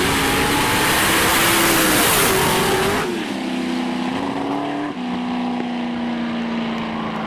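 Drag-racing car engines at speed under a loud hiss for about three seconds, then the level drops and a steadier engine tone sinks slowly as the cars slow down after the run.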